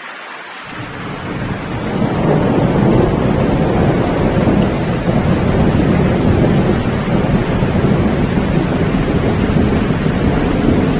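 Steady rain with a long rolling rumble of thunder that swells in about a second in and keeps rumbling.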